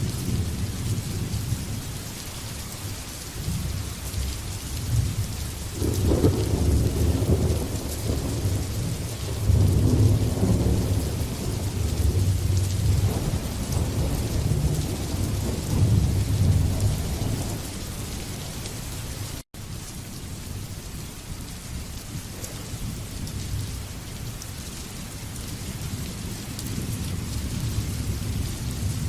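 Steady rain falling, with long rolls of thunder rumbling from about six seconds in, loudest around ten seconds, then dying away while the rain carries on. The sound cuts out for a split second about two-thirds of the way through.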